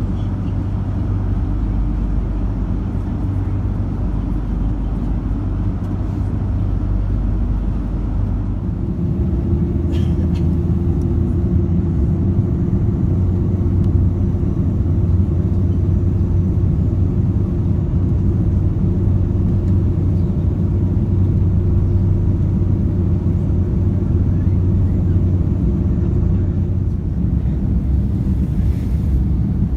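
Airbus A330-200 cabin noise: a steady low rumble of engines and airframe. About nine seconds in, a steadier hum with a held tone sets in and lasts until near the end.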